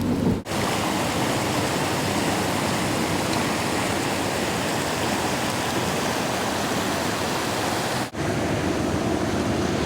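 Steady rushing of high floodwater, an even roar with two brief dropouts, about half a second in and near the end.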